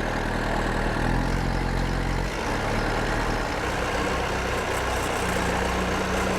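Bulldozer's heavy diesel engine running steadily with a low hum.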